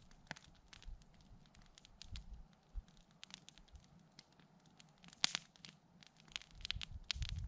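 Campfire of burning wood crackling, with scattered small irregular pops and one louder snap about five seconds in.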